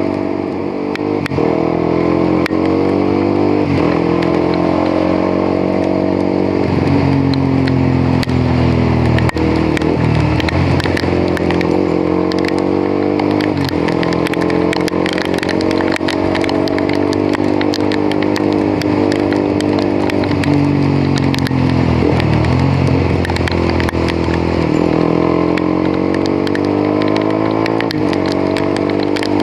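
Motorcycle engine running while riding, its pitch rising and falling several times as the rider accelerates, shifts and eases off.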